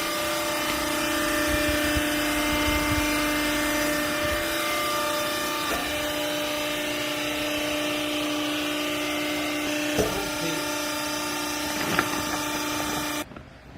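Hydraulic baling press's power unit running with a steady whining hum, with a couple of sharp knocks near the end. It cuts off suddenly just before the end.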